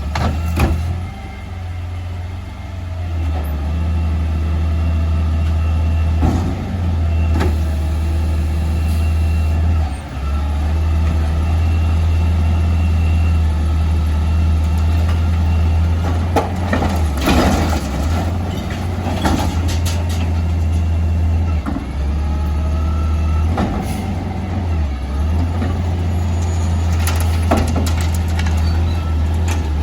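Peterbilt 520 garbage truck running with a steady low drone, with scattered sharp clanks and knocks over it, several bunched a little past halfway.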